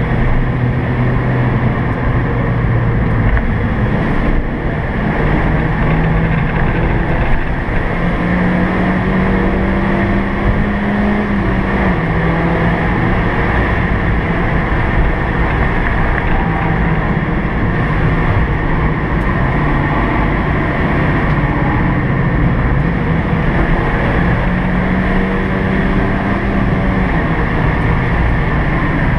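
Suzuki Swift's engine running hard, heard from inside the cabin over steady road and wind noise. Its note climbs slowly and drops back a few times as the car accelerates and shifts: about 3 seconds in, about 12 seconds in, and again near the end.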